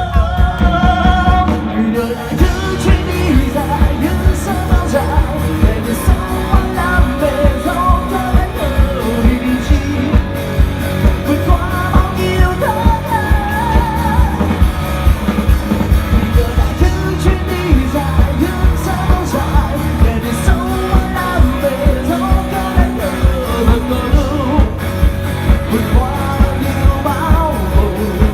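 Live rock band playing: drums keeping a steady beat under guitar, with a singer's voice carrying the melody.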